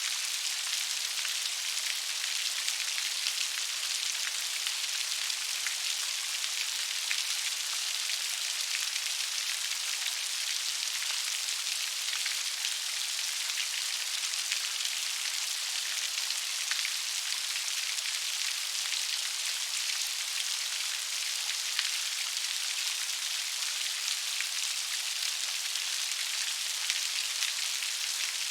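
Steady gentle rain: an even hiss with a dense patter of fine drop ticks, no thunder or wind gusts.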